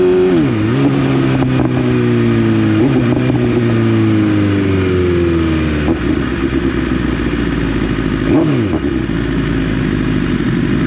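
Motorcycle engine held at steady revs, then the revs drop sharply and keep falling over several seconds as the bike slows, with a small step up partway as it shifts. A short blip of revs comes near the end, then low running under steady wind and road noise.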